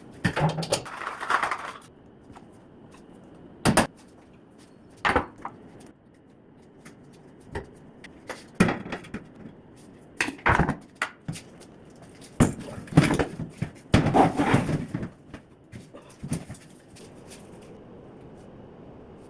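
Irregular knocks, clunks and short scraping clatters of hand work on kitchen cabinetry and fittings, busiest about halfway through, with a faint steady background hiss.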